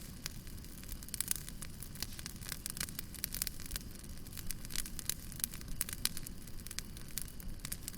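Wood fire crackling and popping, with a steady low rumble of burning underneath and dense, irregular snaps throughout.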